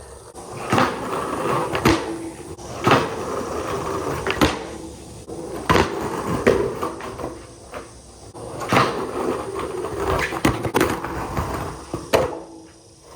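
Skateboard rolling on concrete, its wheel rumble swelling and fading, with sharp clacks of the board and trucks striking the ground every second or so.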